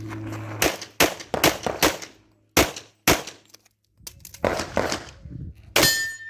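Pistol shots fired in a USPSA stage: a string of about nine sharp reports, several in quick pairs with short pauses between groups, and a ringing tone near the end.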